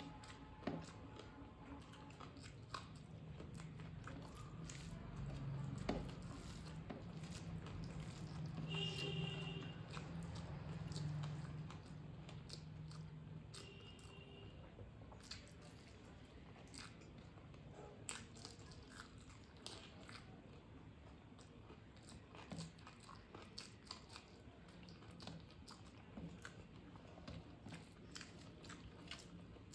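A person chewing mouthfuls of rice and curry close to the microphone, with small mouth clicks and occasional crunchy bites.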